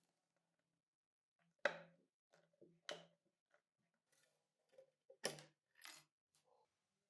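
A series of sharp clicks and knocks from tools and metal parts being handled while the old table fan is taken apart. The loudest knocks come about two seconds in and again a little past five seconds.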